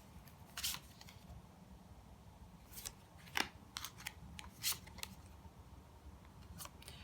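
Tarot cards being handled and laid down: faint, scattered clicks and snaps, about ten of them, bunched in the middle few seconds.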